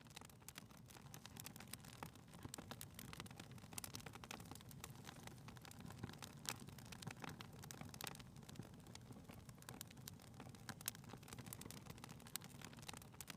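Faint crackling of a wood fire in a fireplace: scattered sharp pops and snaps over a low, steady rustle.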